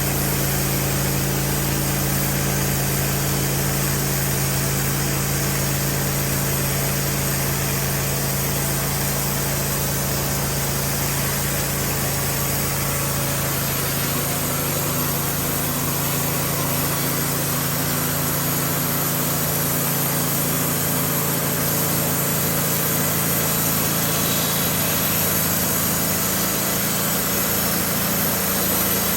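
Wood-Mizer LT15 band sawmill running steadily while milling a log, its engine holding one even pitch. A higher hiss in the sound thins out about halfway through.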